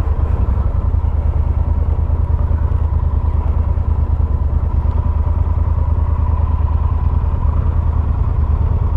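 Motorcycle engine running steadily, heard from a helmet-mounted camera, with a strong low rumble throughout.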